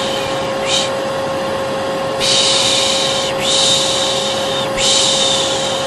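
Hair dryer running steadily with a motor hum, under a person's repeated 'piş piş' shushing to soothe a colicky baby. There is a short shush about a second in, then three long shushes one after another.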